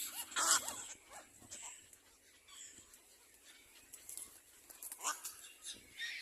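Little black cormorants calling: a quick run of short, squeaky calls near the start, the loudest about half a second in, then fainter, scattered calls.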